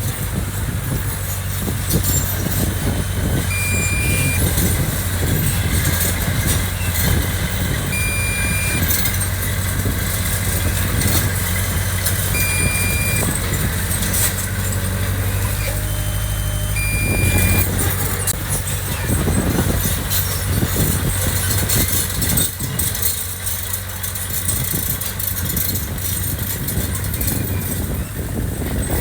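Heavy diesel machinery engine running steadily, with a short high beep about every four seconds from a backup alarm.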